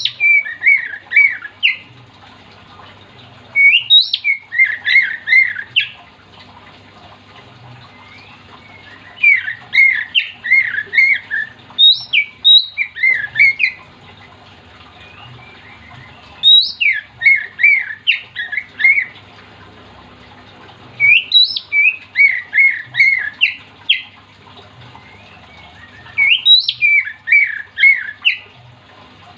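Oriental magpie-robin (kacer) singing loudly: six repeated phrases a few seconds apart, each opening with a high sharp note and running into a quick string of lower chattering notes.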